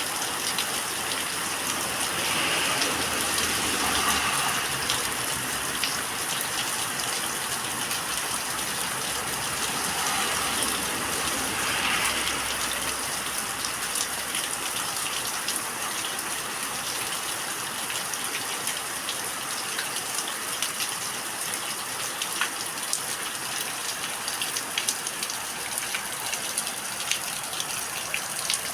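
Rain falling steadily on yard plants, a continuous hiss dotted with many small drop ticks, swelling a little a few seconds in and again near the middle.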